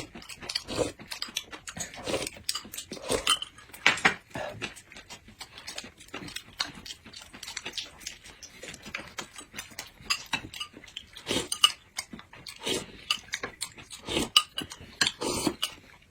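Tableware clinking during a meal: many irregular light clicks and knocks of utensils against bowls and plates.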